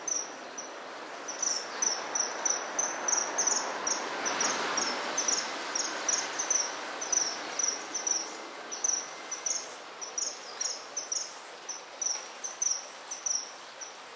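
A cricket chirping in short, regular pulses at a high pitch, about two to three a second, over the steady rush of stream water.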